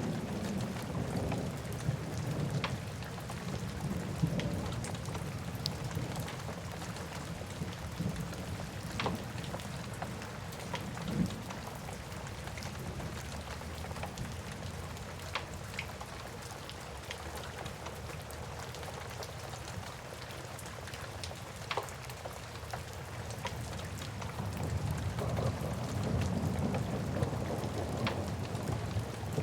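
Rain falling steadily with a wood fire crackling, giving sharp pops scattered through. A low rumble, like distant thunder, is heavier at first and swells again near the end.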